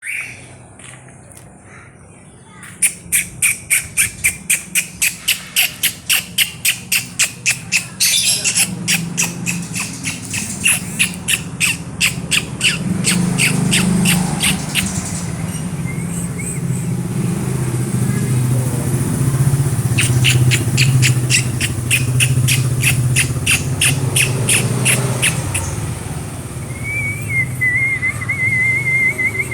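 White-rumped shama (murai batu) calling in long runs of sharp repeated chips, about four a second, with a short wavering whistle near the end. A steady low hum runs underneath through the middle.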